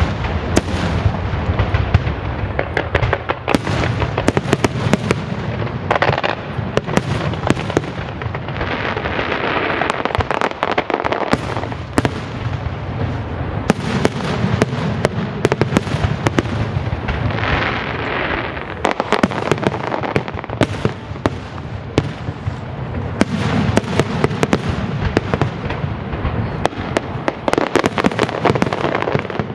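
Fireworks display: a continuous barrage of shell bursts and crackling pops, many reports a second, over a steady low rumble, with stretches of crackle and hiss from glittering effects.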